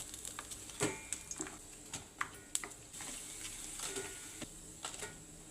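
Scattered light clicks, taps and clinks of kitchen utensils and dishes being handled, a few of them ringing briefly.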